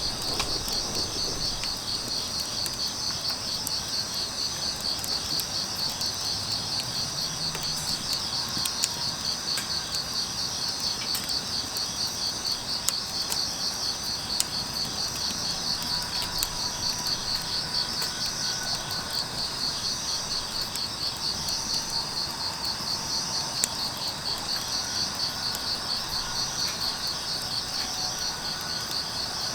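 Crickets chirping in a steady, fast-pulsing high trill, with a few sharp pops from a wood fire crackling.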